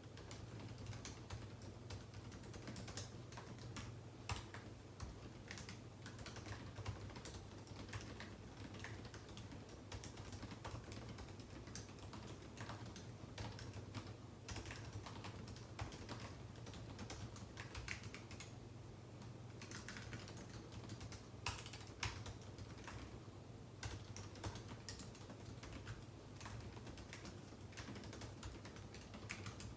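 Typing on a computer keyboard: irregular runs of soft key clicks with short pauses, over a steady low hum.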